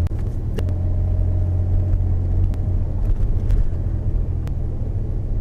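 Car being driven, heard from inside the cabin: a steady low engine and road rumble, with a few light clicks.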